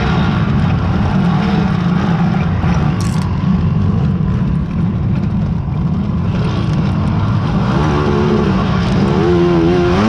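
Racing quad (ATV) engines running under load during a harescramble. The engine pitch rises and falls repeatedly near the end as the throttle is worked.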